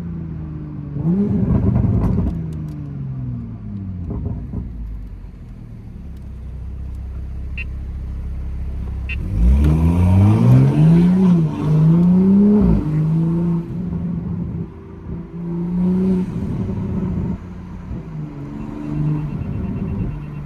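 Toyota MK5 Supra's turbocharged engine and exhaust while driving: the revs fall at first, with a short blip about two seconds in. About nine seconds in the car pulls hard, and the revs climb, drop and climb again through a gear change. The pull cuts off abruptly and the car settles into steady cruising.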